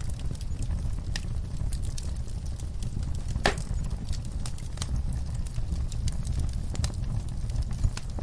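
Wood fire crackling: irregular sharp pops and snaps over a steady low rumble, with one louder pop about three and a half seconds in.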